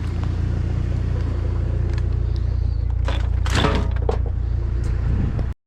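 Pickup truck engine idling steadily, with a brief scraping clatter of scrap being handled about three seconds in.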